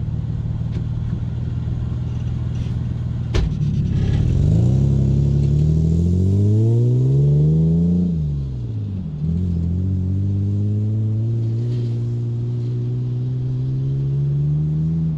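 An engine running and revving: its pitch climbs for a few seconds, drops quickly around eight seconds in, then climbs slowly again. A sharp click sounds a few seconds in.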